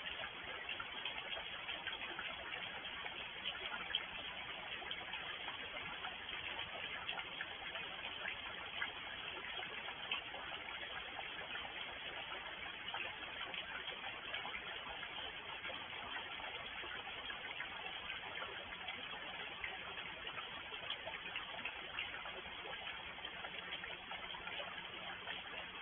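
Steady rain falling, an even hiss with scattered drop ticks and a few louder single drops.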